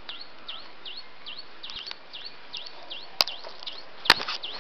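A bird repeating a short dipping chirp over and over, two or three times a second. Two sharp clicks stand out, about three and four seconds in.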